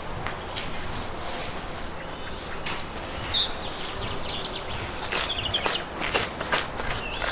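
Birds chirping with short high calls and a few brief warbles, over steady outdoor background noise, with scattered light clicks and knocks.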